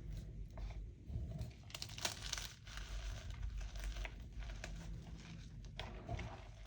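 Homemade gym chalk being crushed and crumbled by hand: an irregular run of crisp crunching and crackling, densest about two seconds in.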